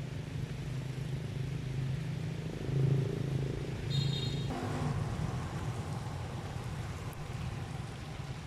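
A steady low motor rumble, swelling briefly about three seconds in, with a short high chirp about four seconds in.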